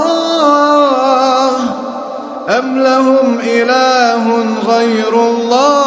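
A male voice reciting the Quran in a slow, melodic chanting style, holding long notes and bending them up and down. The voice eases off about two seconds in, then picks up sharply on a new phrase.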